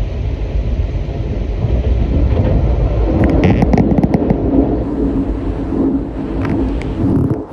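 Moving train heard from its window: a loud, steady rumble and rush of wheels on rail. From about three seconds in, rapid clattering clacks of wheels over rail joints join it, with a second run of clacks later on, as another train passes alongside. The noise drops sharply just before the end.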